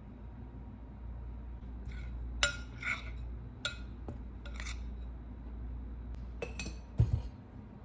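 Dishes and utensils being handled: a series of sharp clinks and knocks with a brief ring, then a heavier knock near the end, over a steady low hum.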